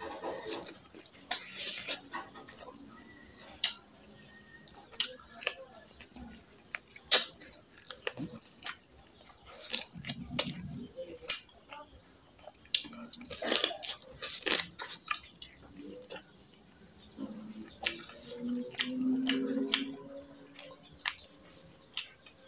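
Close-miked eating by hand: wet chewing and many sharp lip-smacking clicks as mouthfuls of curry, rice and meat are eaten, with squishing as fingers mix the rice and curry. A short hummed voice sound comes near the end.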